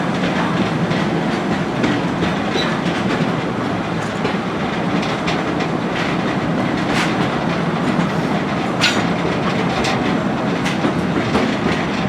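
Akasawa Forest Railway narrow-gauge train running, heard from aboard: a steady rumble of wheels on rail with irregular clicks as the wheels pass over rail joints, one sharper click about nine seconds in.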